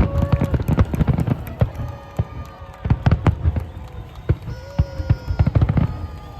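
Fireworks going off in a rapid run of bangs and pops, thickest in the first second, thinning out, then picking up again in the second half.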